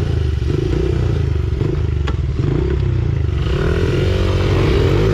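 Pit bike engine running under way, its speed rising and falling, then climbing in pitch as it revs up from about three and a half seconds in. A single sharp click comes about two seconds in.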